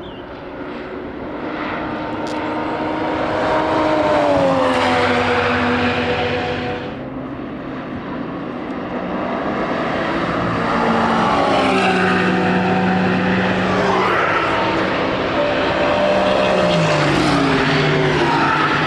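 Race cars passing at speed one after another, the engine pitch sliding down as each goes by.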